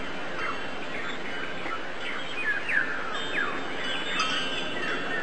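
Birds chirping: many short calls, each falling in pitch, repeated over a steady background hiss.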